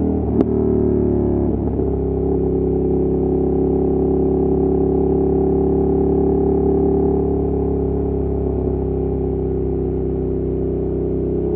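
Ducati Monster 1200's L-twin engine and exhaust running steadily while riding, with a sharp click just under half a second in and a brief shift in pitch about a second and a half in.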